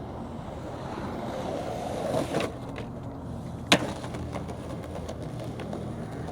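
Skateboard wheels rolling on concrete, the roll getting louder, then one sharp crack a little past the middle as the board snaps or hits, followed by a few light clicks.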